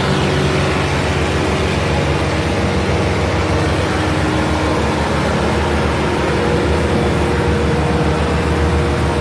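Belarus tractor's diesel engine running loud and steady, with a low, rapid pulsing throb and its pitch shifting slightly midway.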